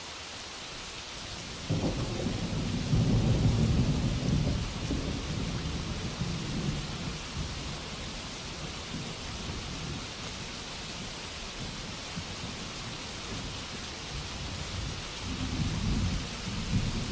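Steady rainfall with rolls of thunder: a low rumble swells about two seconds in and fades over a few seconds, and another builds near the end.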